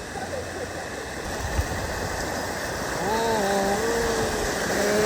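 Rushing river water flowing steadily. About three seconds in, a person's voice comes in with a long, drawn-out call.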